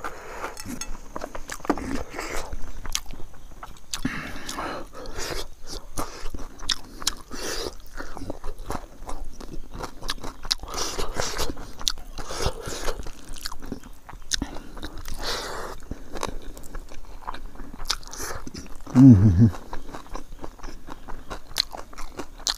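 Close-up chewing and crunching of crispy fried grasshopper pickle eaten with rice, as a run of small crackles and mouth sounds. About three-quarters of the way through there is one short hummed "mm" that falls in pitch.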